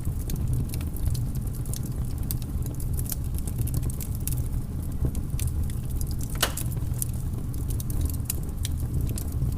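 Wood fire burning in a fireplace: a steady low rumble with scattered crackles and snaps, and one louder pop about six and a half seconds in.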